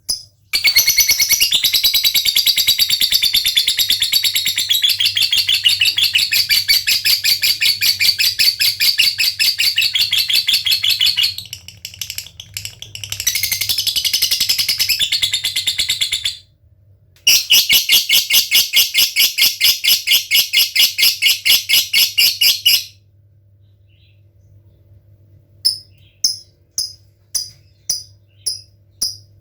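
Lovebird singing in long, rapid, unbroken chattering trills ('ngekek'), three bouts with short breaks. After a pause near the end it switches to separate sharp ticking calls a few per second ('ngetik').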